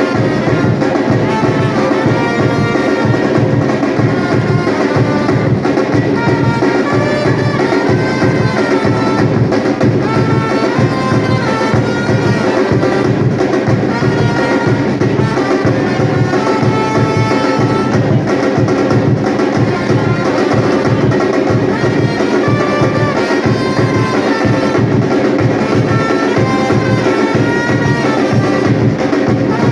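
Batucada percussion group playing a fast, steady, dense drum rhythm, with a melody line stepping up and down above the drums.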